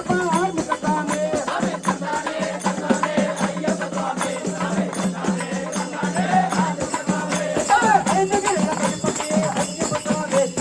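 Ayyappa devotional bhajan: voices singing over a steady drone, with continuous rattling hand percussion.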